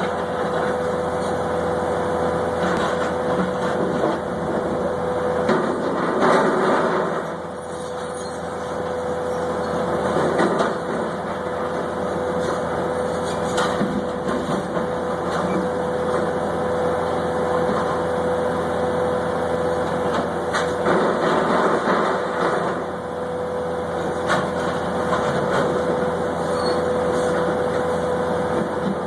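Freight train running past: steady rumbling running noise with a constant tone over it and occasional short clanks.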